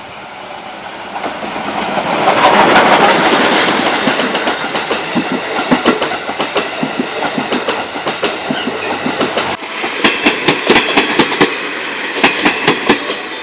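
A train passing close by, its wheels clattering over the rail joints in quick groups of clicks. It is loudest about two and a half seconds in.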